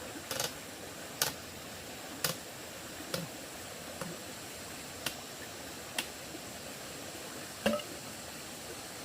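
Sharp knocks of a hand tool striking wood, about one a second, eight in all, over a steady hiss; the last comes after a slightly longer pause.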